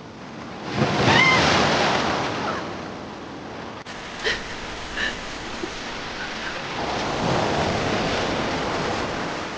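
Sea water surging and splashing, swelling loudly about a second in and again around seven seconds, with two short high-pitched cries around four and five seconds.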